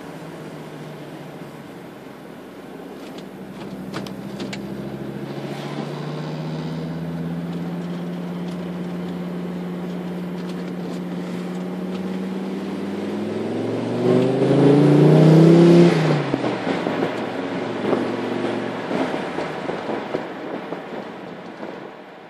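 Volvo 960's turbocharged 2.3-litre five-cylinder T5 engine through a 3-inch exhaust with only a middle muffler. It runs steadily at first, then builds gradually. About fourteen seconds in it revs hard with a quickly rising pitch, the loudest part, and drops off suddenly about two seconds later. It runs unevenly after that and fades away at the end.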